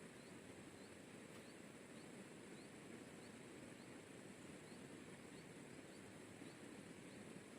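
Faint river-bank ambience: a steady low rush of flowing river water, a steady high insect drone, and a short rising chirp from a small animal repeating about twice a second.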